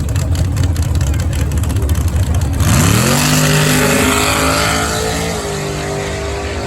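Drag race car engine rumbling with rapid low pulses, then about two and a half seconds in it launches: the revs climb quickly and hold high over a loud hiss of exhaust and tyres. The engine note drops slightly a little past five seconds in as it pulls away down the strip.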